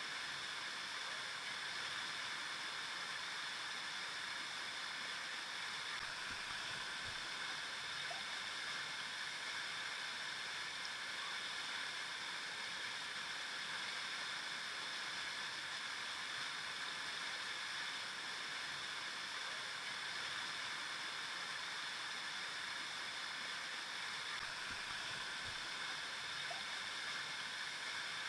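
River water flowing steadily over rocks, an even rushing and babbling without a break, with a soft low thump or two.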